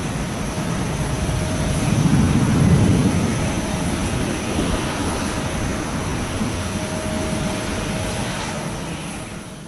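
Airbus A321-211 airliner's twin CFM56 jet engines at takeoff power, a steady low rumble that is loudest about two to three seconds in, then slowly fades as the aircraft climbs away.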